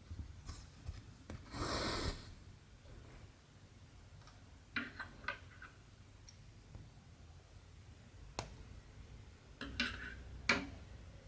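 Cross-stitching handwork on fabric: a short rasp about two seconds in, then a few light clicks and taps, in pairs around the middle and near the end.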